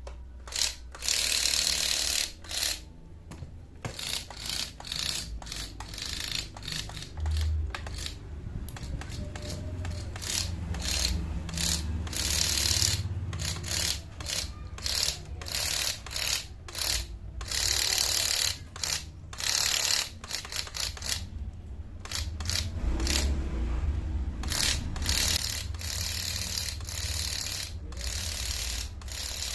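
Small motor and gear train of a homemade RC car running in short, irregular bursts, stopping and starting many times over a low hum.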